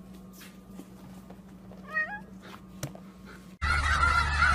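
A cat gives one short meow, rising in pitch, about two seconds in, with a sharp click soon after. Near the end the sound switches abruptly to a flock of geese honking loudly.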